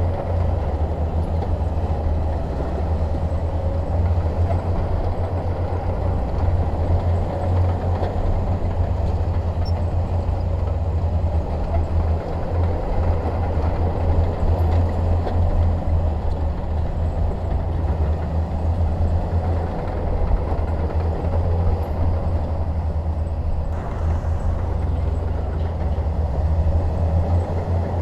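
Shantui DH17 bulldozer's diesel engine running steadily with a deep, even rumble.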